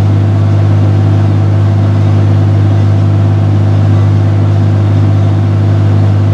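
John Deere 6068 six-cylinder diesel in a Fabtek 153 harvester running steadily under load, its engine note loud and unchanging after a thermostat replacement.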